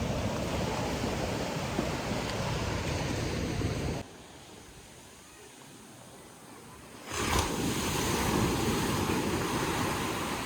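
Sea surf washing onto a beach, a steady rushing noise. It drops abruptly to a much quieter stretch about four seconds in and comes back just as abruptly about three seconds later.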